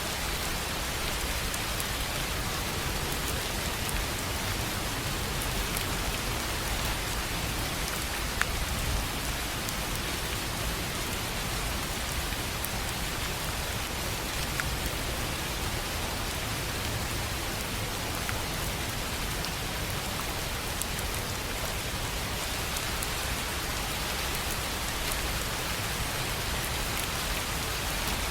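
Steady rain falling on a tin roof: an even hiss of rainfall with scattered sharper drop ticks.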